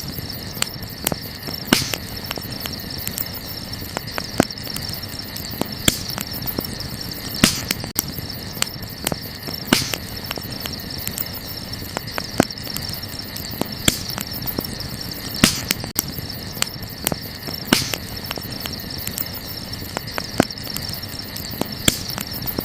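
Wood campfire crackling, with frequent small snaps and a sharper, louder pop every second or two over a steady hiss. A steady high-pitched drone runs underneath.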